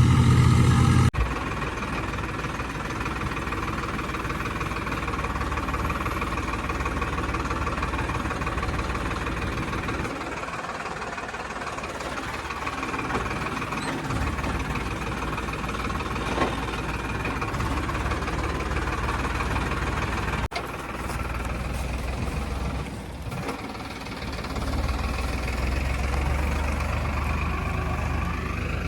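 Tractor engine running steadily. The drone breaks off abruptly about a second in and again about two-thirds of the way through, then carries on.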